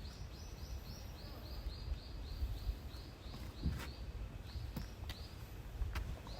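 A small bird calling a rapid run of high chirps, about four a second, that stops about five seconds in. A low rumble and a few sharp clicks sit under it.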